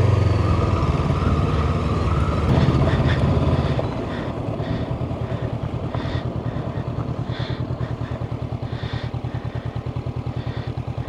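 Honda CB500X parallel-twin motorcycle engine running as the bike rolls slowly, then dropping about four seconds in to an even, pulsing idle as the bike comes to a stop.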